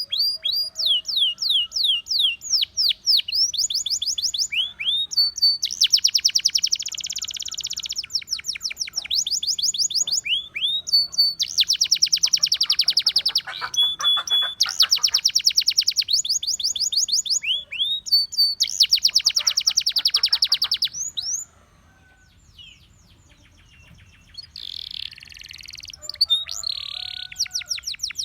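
Russian singing canary singing a long song of rapid trills. Each trill is a fast run of repeated high notes falling in pitch, some held for a second or two before switching to a new note type. The song breaks off for a couple of seconds about three quarters through, then resumes softly and picks up into fast trills again near the end.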